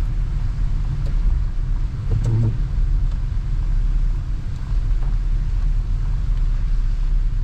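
Car driving along a paved road: a steady low rumble of engine and tyre noise, with a short pitched sound about two seconds in.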